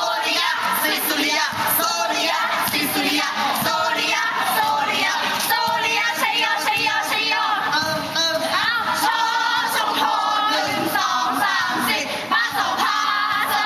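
A large group of young voices singing a school cheer song together, continuous and fairly loud.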